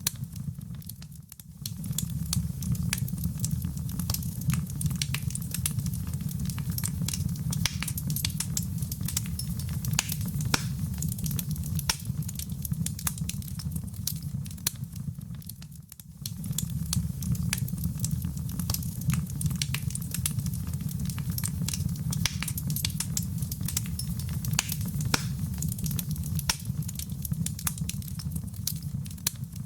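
Wood fire in a fireplace crackling, with dense irregular pops and snaps over a steady low rumble of flame. The sound dips briefly twice, about a second in and about halfway through.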